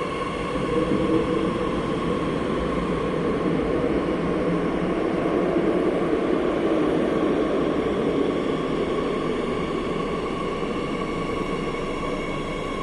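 Madrid Metro train running between stations, heard from inside the car: a continuous rolling rumble of wheels on rail with a steady whine of several high tones above it, swelling slightly in the middle.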